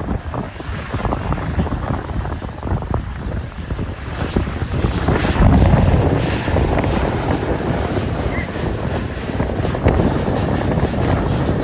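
Aircraft passing, its engine noise building to a peak about halfway through, with heavy wind buffeting on the microphone.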